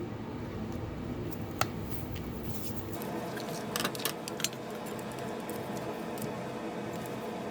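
Parts of an antique electric fan being handled and taken apart: a single sharp click about one and a half seconds in, then a quick cluster of clicks around four seconds, over a steady low hiss.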